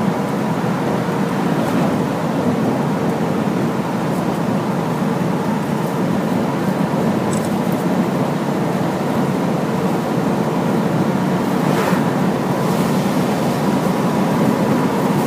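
A large Hino truck under way, its diesel engine and tyre and road noise making a steady, even drone with a faint constant whine.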